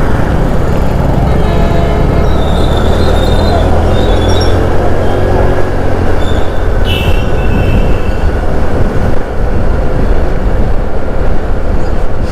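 Motorcycle riding noise: steady wind rush on the GoPro's microphone over the bike's running engine and road traffic, with a few faint high tones in the middle.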